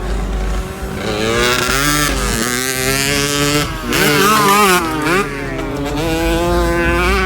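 Several small Italika motorcycle engines revving, their pitch climbing and falling again and again over a steady low engine hum, loudest a little past the middle.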